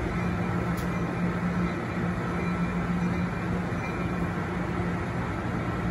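Amtrak bilevel passenger train standing at the platform, its locomotive and car equipment giving a steady rumble with a constant low drone. A faint click about a second in.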